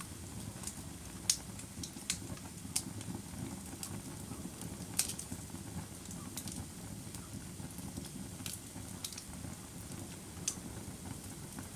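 Wood fire burning, a low steady rumble under irregular sharp pops and crackles; the loudest pops come about a second in and about five seconds in.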